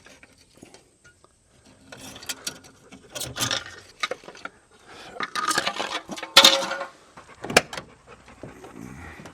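Irregular metallic clinks, clanks and scraping of metal parts and tools being handled, with the loudest clank about six and a half seconds in and a sharp click a second later.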